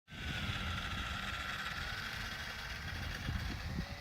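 Electric RC racing plane's brushless motor and 8x8 propeller whining at high power, the pitch dipping slightly and then holding steady, over a low rumble.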